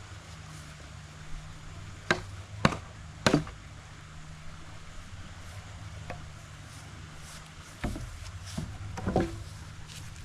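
Sharp knocks: three about half a second apart near the start and a looser group of three near the end, over a steady low hum.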